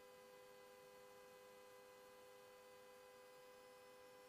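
Near silence, with only a faint steady electrical hum of a few held tones.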